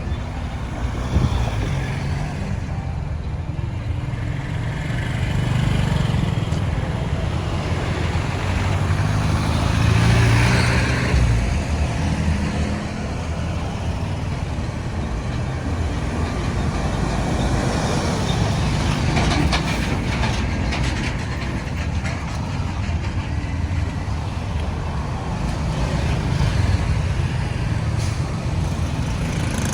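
Road traffic noise: a continuous low rumble of engines and tyres from passing vehicles, swelling louder about a third of the way in.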